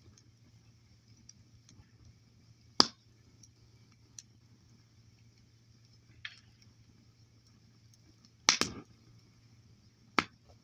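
Wood fire crackling, with a few sharp, sparse pops of burning wood: a loud one a little under 3 s in, a double pop at about 8.5 s, and another near the end, over a faint low hum.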